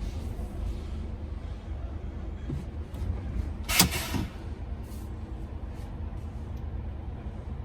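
Steady low rumble of a truck, with one sharp click about four seconds in.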